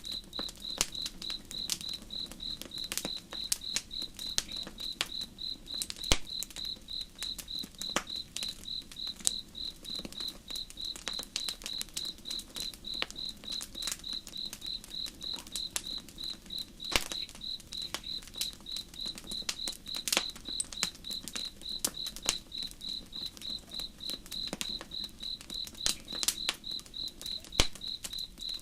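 Campfire crackling with scattered sharp pops, over a cricket chirping in a steady, evenly pulsed rhythm and a low, even rush of flowing river water.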